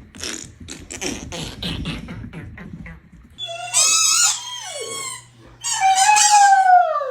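Great Dane vocalizing: about three seconds of quick breathy huffs, then two drawn-out howling whines, the second sliding down in pitch.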